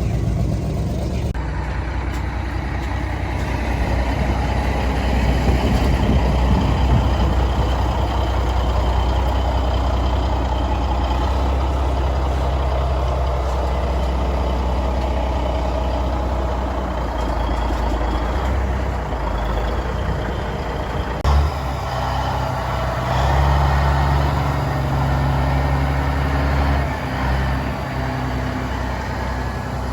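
Vintage truck's engine running steadily with a deep low rumble, with an abrupt change and a brief sharp thump about two-thirds of the way through.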